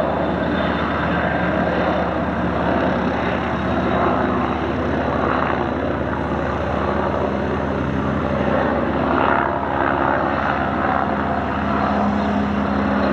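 Aircraft engine noise: a steady drone with a few held low tones that grow stronger near the end.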